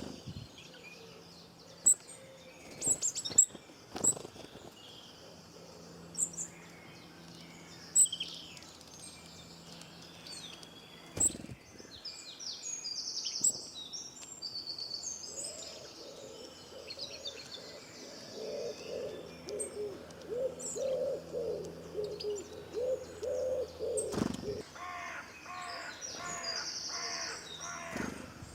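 Wild birds chirping and calling, with short high chirps throughout and a few sudden sharp clicks in the first half. A long run of rapid lower notes comes about two-thirds of the way in, followed near the end by a quick series of brighter repeated notes.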